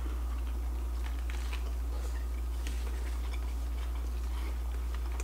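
People biting into and chewing soft-tortilla fish tacos with shredded cabbage: faint small crunches and mouth sounds, over a steady low hum.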